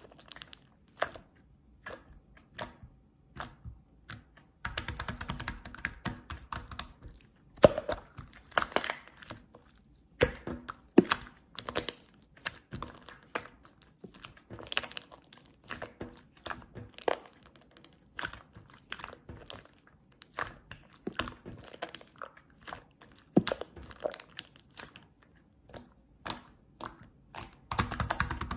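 Chewy slime being squeezed, stretched and poked by hand: an irregular run of sticky clicks and pops, busier and louder for a few seconds near the start and again near the end.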